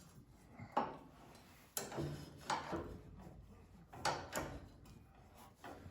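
A handful of sharp metallic clicks and clinks, spaced irregularly, as the arbor nut and washer are fitted onto a cabinet table saw's blade arbor.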